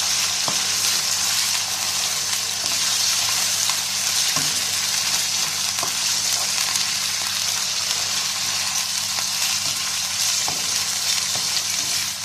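Raw chicken pieces frying in hot oil and garlic paste in a nonstick wok: a steady high sizzling hiss, stirred with a slotted spatula that now and then clicks or scrapes against the pan.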